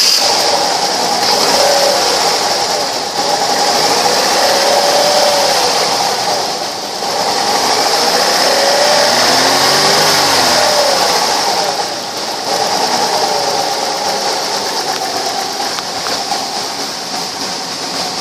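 2006 Chevrolet Cobalt's four-cylinder engine running just after a start, its pitch rising and falling again several times as it is revved up and let back down.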